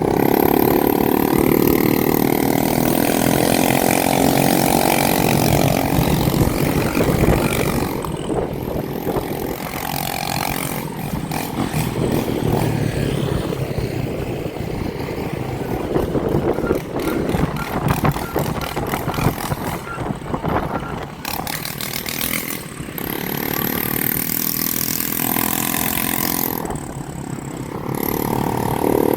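Motorcycle and dirt-bike engines running and revving, rising and falling in pitch, over a steady haze of noise.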